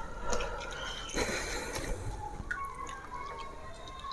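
Wet, squelchy eating sounds of fish curry with rice, with small clicks and one brief hissy burst about a second in.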